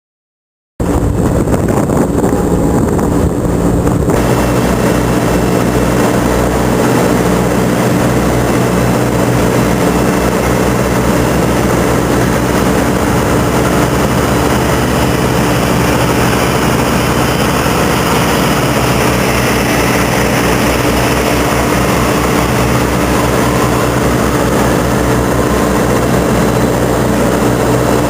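Heavy truck engine running steadily at a constant pitch, cutting in abruptly about a second in.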